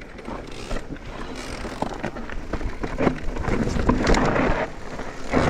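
Mountain bike riding down a rocky trail: tyres rumbling over dirt and stones, with many short knocks and rattles from the bike as it hits rocks.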